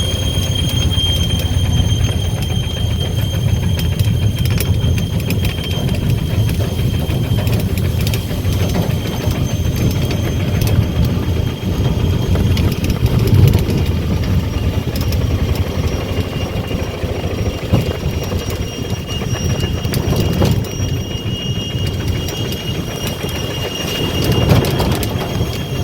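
Steady mechanical rumble with continuous rattling and clicking, and a faint steady high whine over it.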